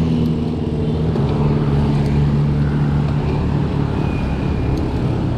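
Motor vehicle engine running steadily close by, with road and traffic noise.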